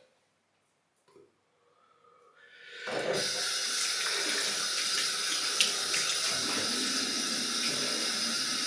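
Near silence, then a water tap is turned on about two and a half seconds in and runs steadily into a sink.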